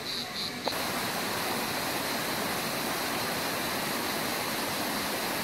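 Rushing water of a canyon stream or small waterfall, a steady even rush that starts abruptly under a second in.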